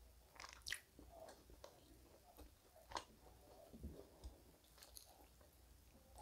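Faint, close-up chewing of a person eating rice and beef with her fingers: soft wet mouth sounds with a few sharper smacks, the clearest about a second in and again about halfway.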